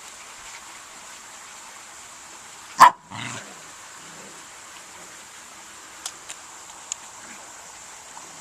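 A dog barks once, short and sharp, about three seconds in, followed by a softer sound just after; a few faint ticks come later.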